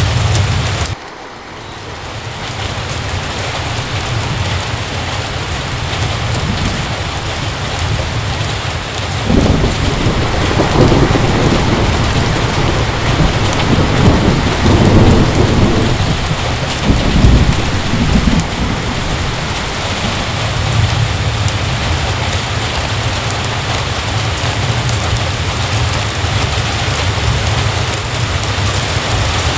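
Heavy, steady rain with thunder rolling through the middle, deep rumbles rising and falling for several seconds. The sound drops off sharply about a second in, then builds back up.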